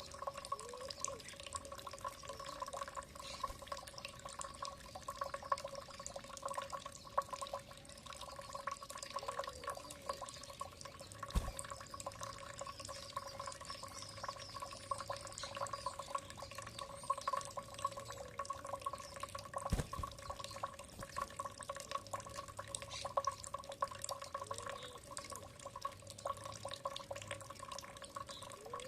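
Water dripping and trickling, with many small clicks and occasional plinks, over a steady low hum. Faint high bird chirps come and go.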